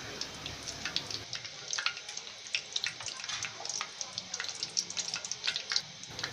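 Egg-battered pumpkin flowers deep-frying in hot oil: a steady sizzle with many small irregular crackling pops.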